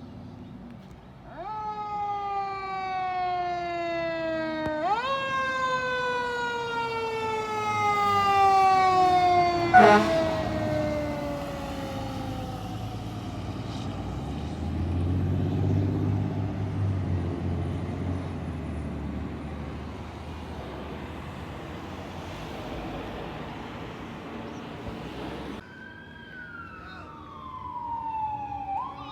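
Fire engine siren wailing, its pitch falling slowly and jumping back up about five seconds in, with a short loud horn blast about ten seconds in as the truck goes by. The truck's engine rumbles past in the middle, and near the end another siren sweeps down and up again.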